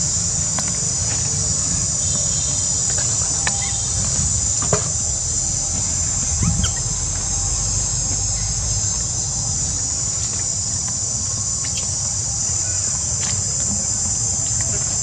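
Steady high-pitched chirring drone of an insect chorus, with a low rumble beneath it.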